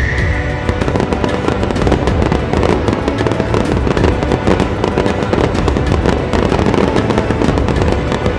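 Fireworks bursting in a dense, rapid crackle, with music playing underneath.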